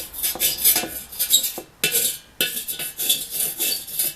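The tip of a 30-watt Mastercraft soldering iron being scraped to clean off old solder: a run of short, irregular scraping strokes with a metallic edge.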